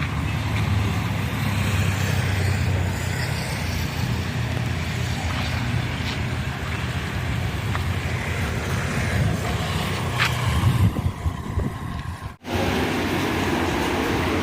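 Steady motor vehicle rumble with road and wind noise. About twelve seconds in, the sound cuts out for a moment, then resumes as a steadier, different-sounding hum.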